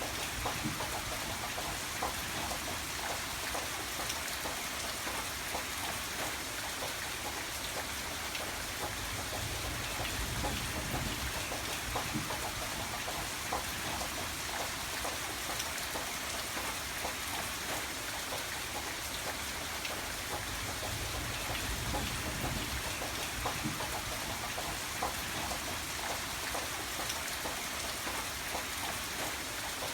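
Steady heavy rain falling, with many individual drops pattering on a surface and a low steady rumble underneath.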